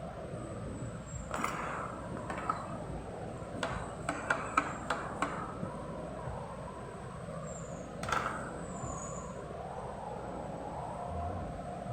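A scattering of sharp clicks and knocks over steady background noise, with a quick run of about six clicks near the middle.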